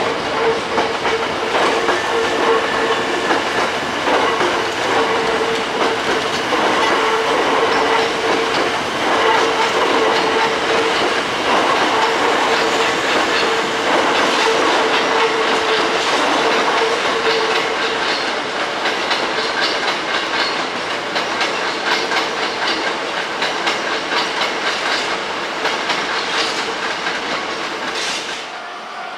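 Hankyu resistance-controlled electric train running, wheels clicking over rail joints under a steady hum, with the sound dropping off just before the end.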